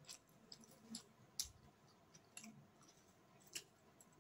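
Mouth clicks and smacks of someone chewing a mouthful of noodles: a handful of sharp, irregular clicks over faint room tone, the loudest about one and a half seconds in.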